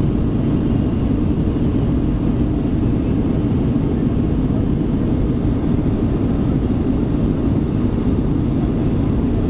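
Steady low rumble of an Airbus A320's jet engines and rushing air heard inside the passenger cabin, unchanging throughout.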